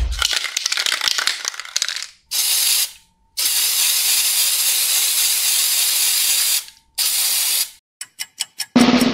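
Aerosol spray-paint can sound effects. The can is shaken for about two seconds with a rattling clatter, then sprays in three hisses, the middle one long (about three seconds). A quick run of clicks follows, and a drum roll comes in near the end.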